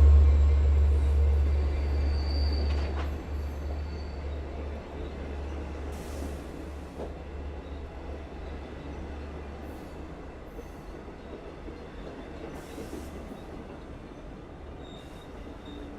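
An EMD DM30AC diesel locomotive's deep engine rumble fading as it pulls on past, leaving Kawasaki C3 bilevel coaches rolling by as the train slows for the station stop. Brief high-pitched brake squeals come a couple of seconds in and again near the end.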